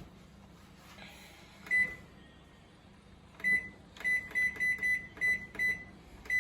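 IFB 30BC5 microwave oven's keypad beeping as its buttons are pressed: a short high beep near two seconds in, another about a second and a half later, then a quick run of about seven beeps roughly a third of a second apart.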